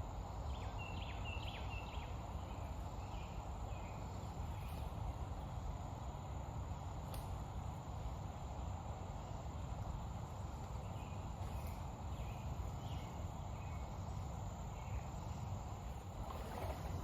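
Outdoor creekside ambience: a steady low rush, with short high chirps repeating in small groups near the start and again about two-thirds of the way through.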